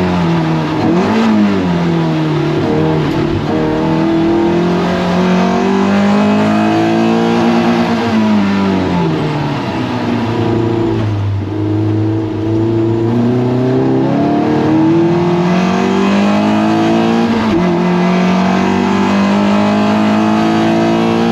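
Toyota MR2 race car engine at racing speed, its pitch climbing under acceleration and dropping on braking and gear changes, lowest around the middle, then rising again.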